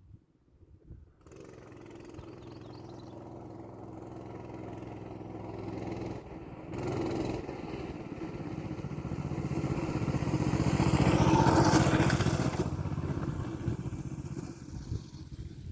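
Coleman BT200X mini bike's small single-cylinder four-stroke engine running, coming in about a second in, growing steadily louder to a peak about three-quarters of the way through, then fading.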